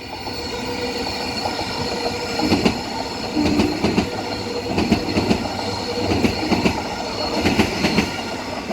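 Six-car Transperth B-series electric multiple unit passing at speed without stopping, with a steady whine and, from a couple of seconds in, a repeated clatter of wheels about one or two times a second.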